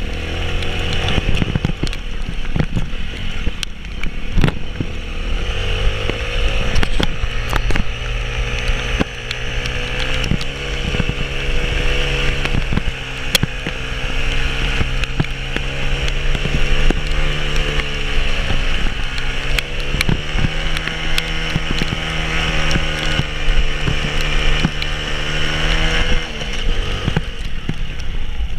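A vehicle engine running under load, its pitch sinking and climbing again a couple of times, with scattered knocks and clatter; the engine note drops away near the end.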